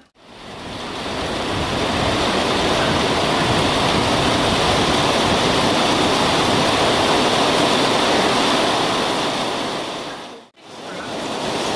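Steady rushing roar of a train passing at speed, fading in at the start and dropping out briefly about ten and a half seconds in.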